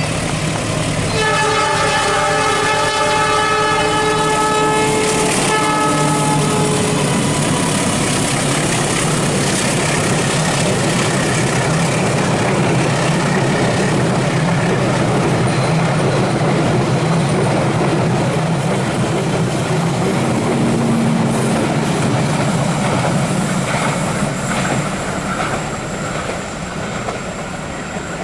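An Indonesian passenger train's locomotive sounds its horn, a steady chord of several notes held for about five seconds. The train then runs past close by with a loud, steady rumble and wheel noise on the rails.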